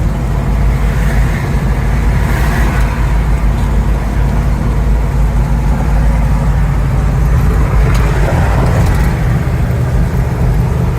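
Old pickup truck driving along in about third gear, heard from inside the cab: a steady low engine drone mixed with road noise.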